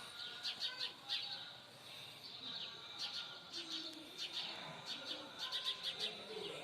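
Small birds chirping, many short, quick high notes repeated throughout.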